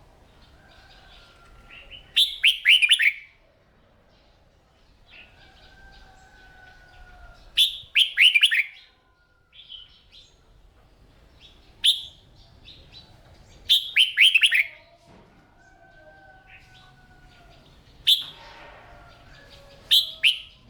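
Red-whiskered bulbul singing short, loud bursts of quick warbled notes every few seconds. Quieter drawn-out whistled notes come in between.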